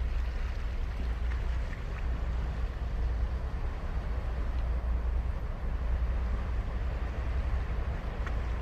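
Ocean surf breaking and washing onto a sandy beach: a steady rush with a strong low rumble.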